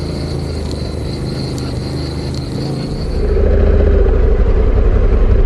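Motorcycle engine and wind noise while riding, with a faint steady high whine for the first three seconds. About three seconds in it grows louder and the engine note comes up.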